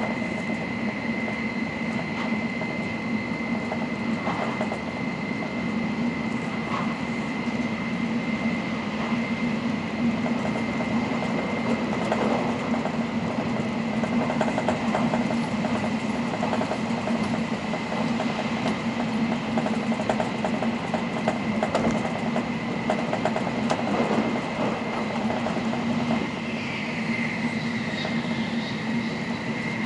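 N700 series Shinkansen running at speed, heard from inside the passenger car: a steady low rumble with a thin, constant high whine above it.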